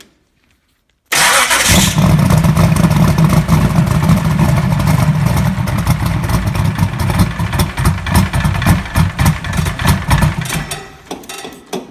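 Turbocharged small-block Chevy V8 starting cold: it fires suddenly about a second in, runs loudly for about nine seconds, then dies away. The owner puts the hard start down to the engine being cold.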